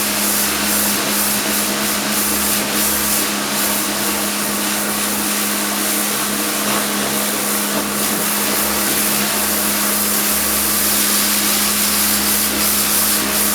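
Kärcher pressure washer running without a break: a steady motor-pump hum under the hiss of the water jet, washing dirt off a boat hull.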